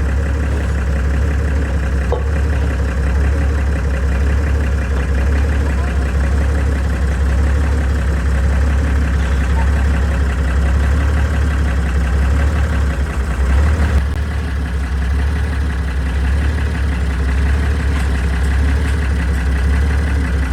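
Heavy truck diesel engine idling steadily, with a brief change in its note about fourteen seconds in.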